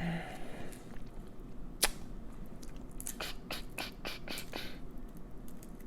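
Close-up sounds of a buttery shrimp being handled and eaten: a sharp click about two seconds in, then a run of small wet clicks and crackles.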